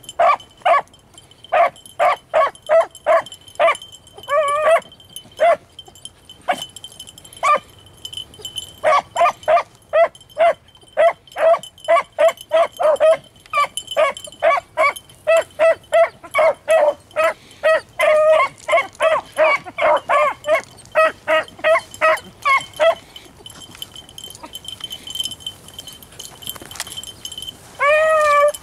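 A pack of beagles baying on a rabbit's trail: rapid runs of short chop barks, a lull about four-fifths of the way in, then longer drawn-out bawling howls near the end.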